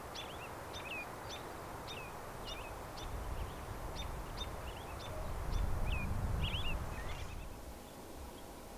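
A bird calling over and over with short, sharp, high chirps, about two a second, over a steady outdoor rush. A low rumble swells near the end, and the calls stop shortly after.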